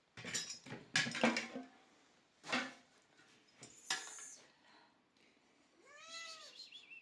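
A cat meows once near the end, a single call that rises and falls in pitch. Before it come several short clinks and knocks.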